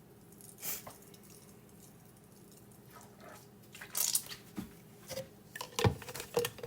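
Marinade injector drawing up the last of the liquid marinade, a few short wet squishes and drips with quiet between.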